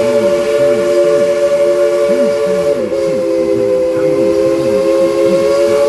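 Three-note chime steam whistle of Baldwin-built steam locomotive No. 190 blown in one long, steady blast, its pitch dipping slightly about three seconds in.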